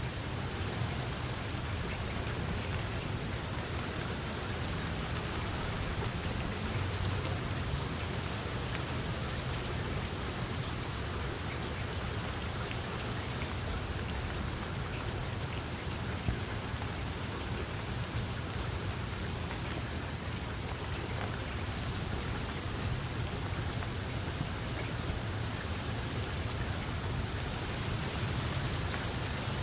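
Steady rain falling: a continuous even hiss made of many fine drop ticks, with a low steady rumble underneath.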